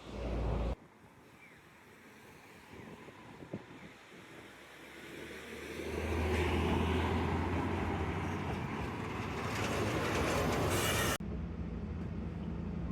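A vehicle coming close and running past, a low steady hum with noise that builds over about a second and holds for several seconds, then cuts off suddenly.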